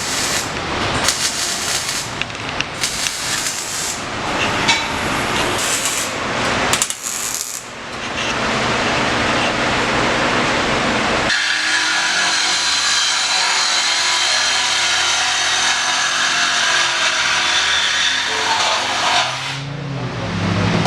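Shop power tools working on a car's exhaust to take the old system off, loud and uneven at first, then changing abruptly about eleven seconds in to a steadier, more even noise.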